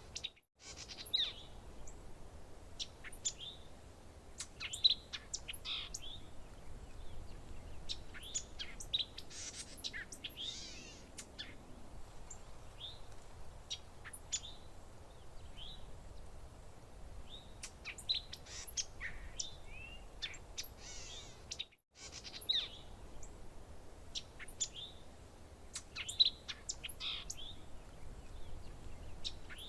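A chorus of small songbirds chirping and calling, many short overlapping chirps and quick whistled glides, over a faint steady low rumble. The sound cuts out completely for a split second twice.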